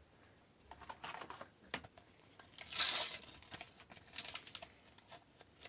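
Paper sticker-pack wrappers being torn open and crinkled by hand: scattered crackles, with one louder rip about three seconds in.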